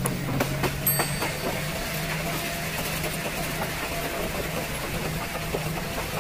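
Passenger train running along the track, heard from the coach: a steady low rumble with scattered clicks and knocks from the wheels on the rails.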